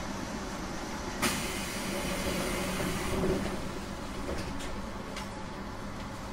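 JR East 719 series electric train, a steady rumble with a low hum. A sharp click comes about a second in, the level swells briefly around three seconds, and two faint ticks follow.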